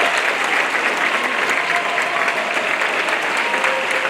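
Audience applauding and cheering after a song.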